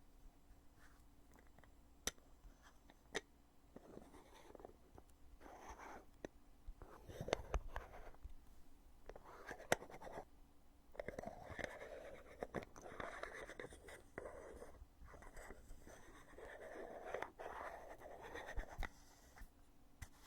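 Lid of a foundation container being opened and closed: several sharp clicks as the lid snaps, with soft rubbing and scraping between them.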